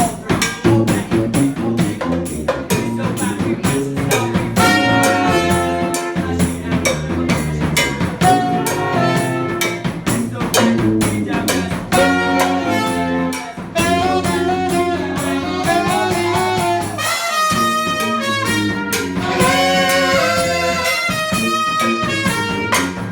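A live band playing an up-tempo tune, with a steady drum beat under a pitched melody line. The band breaks off briefly near the end before playing on.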